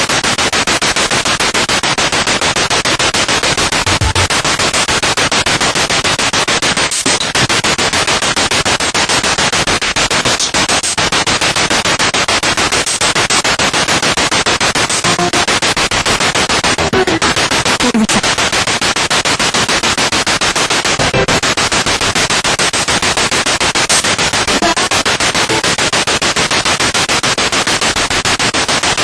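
Spirit box radio sweeping rapidly through stations: loud continuous static chopped into a fast, even flutter, with brief snatches of tones or broadcast fragments poking through now and then.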